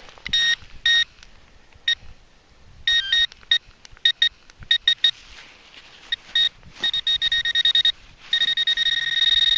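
Metal detector pinpointer beeping as it is swept through the soil of a dug hole: scattered short beeps, then rapid regular beeping, then a steady unbroken tone from about eight seconds in as the probe closes on a buried metal target.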